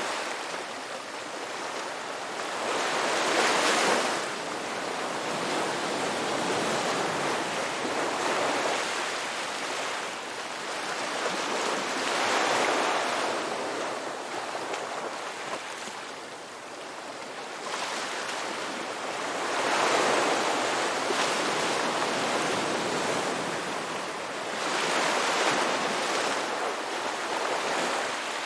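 Ocean surf: waves breaking in a continuous hiss that swells up four times, several seconds apart, as each wave comes in.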